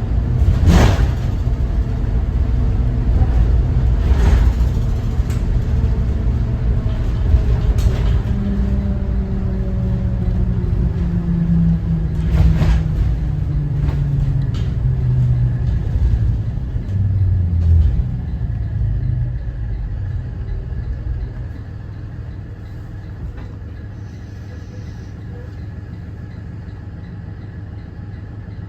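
School bus with a Cummins ISB 6.7 diesel under way, a loud low rumble with a few sharp rattles and knocks. In the middle the engine note falls steadily as the bus slows. About two-thirds through the sound drops to a quieter, steady running note.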